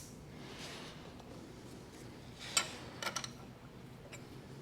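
Quiet machine-shop hum with a few light clicks and taps from handling at the milling machine: one about two and a half seconds in and a short cluster about half a second later.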